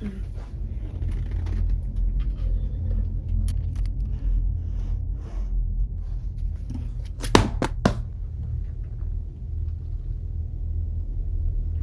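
A steady low rumble of room noise, with faint scattered clicks and a quick run of three or four sharp knocks about seven and a half seconds in.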